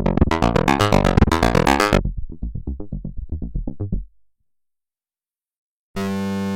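Waldorf Pulse 2 analog mono synth playing a fast sequenced pattern of short, bright notes. About two seconds in, the pattern turns quieter and darker, then dies away at about four seconds. After a couple of seconds of silence, a new sound starts near the end as a steady held note.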